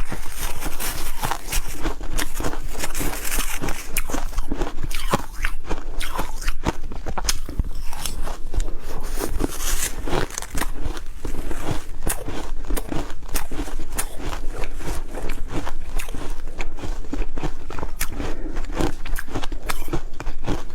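Ice being bitten and chewed, a continuous run of sharp, irregular cracks and crunches.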